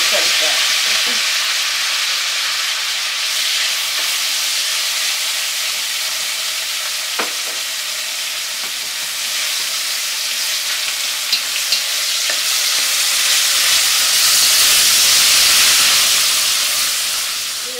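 Chopped tomato, scallion and onion sizzling in hot bacon fat in an enameled cast-iron pot while being stirred with a wooden spoon; the sizzle is loud and steady, swells again late on and fades just before the end, with a few light knocks in the middle.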